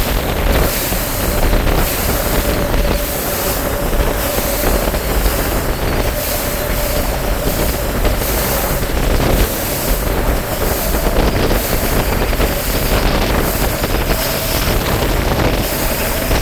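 Bass boat's outboard motor running under way, a steady whine over rushing water, with wind buffeting the microphone.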